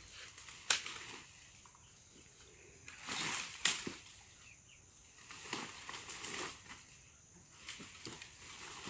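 Intermittent rustling with a few sharp knocks, from wet firewood and brush being handled and shifted.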